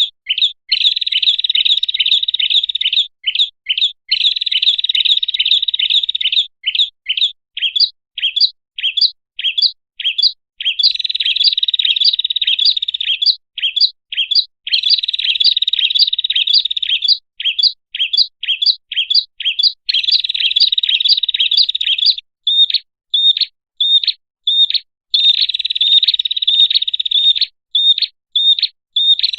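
Prinia (prenjak) lure call: loud fast trilled chattering that alternates with runs of separate sharp falling chip notes, two or three a second, repeating over and over.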